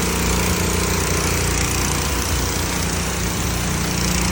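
Small gasoline engine of a pressure washer running steadily under load, with the hiss of its water spray rinsing debris off a concrete driveway.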